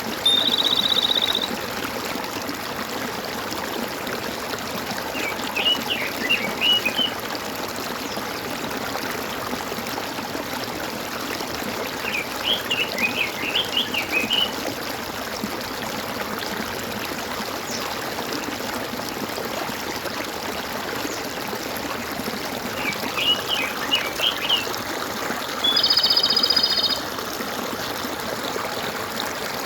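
Steady trickling, gurgling water with birds calling over it: three short bursts of quick chirping spread through, and a louder, held buzzy call once right at the start and once near the end.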